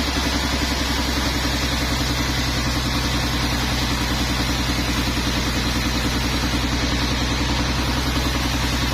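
Sawmill engine idling steadily with an even, fast low throb.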